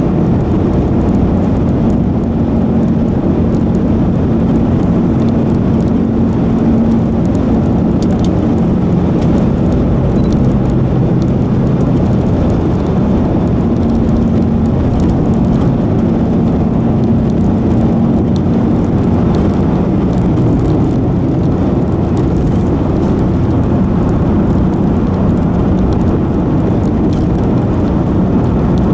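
Strong downburst wind from a thunderstorm: a loud, steady rushing roar with wind buffeting the microphone, a low hum coming and going, and a few sharp ticks about eight to ten seconds in.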